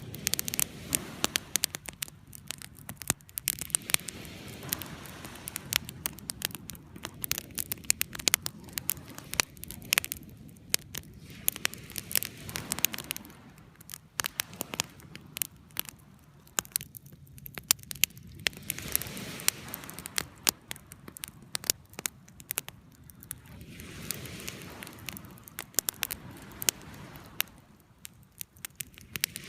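Bonfire crackling with frequent sharp pops, over the wash of sea waves that swells and fades every few seconds.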